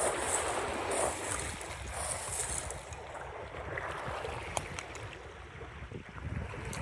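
Wind buffeting the microphone over lapping lake water, with a rushing hiss that eases after the first few seconds and a few faint clicks.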